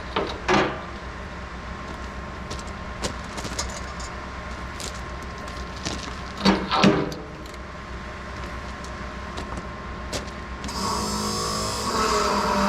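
Refuelling at a farm fuel tank: a steady pump hum with scattered metal clinks and two short louder scrapes. Near the end a louder vehicle engine sound comes in and holds steady.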